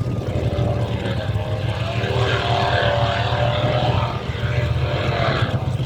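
Off-road competition car's engine running hard: a steady low drone, with a stack of pitched engine tones coming up over the middle few seconds.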